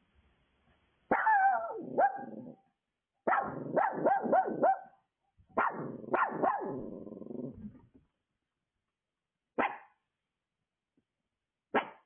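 A dog barking in three quick volleys, then two single barks near the end.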